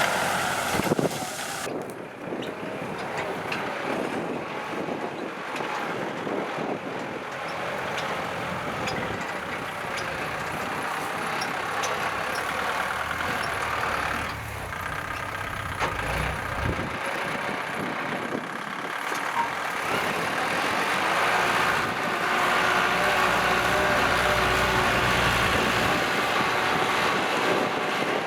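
Kubota L4708SP tractor's diesel engine running steadily, getting louder about two-thirds of the way through.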